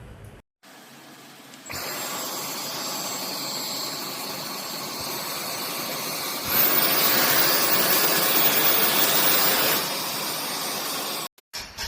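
Dyson V12s cordless stick vacuum running with a steady rush of air and a thin high motor whine. A few seconds in it steps up louder and brighter, drops back to the lower level after about three seconds, then cuts off suddenly near the end.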